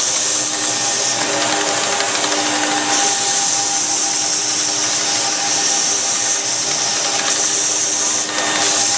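Electric floor-care machine motor running steadily: a strong high hiss over a steady hum, dipping briefly near the end.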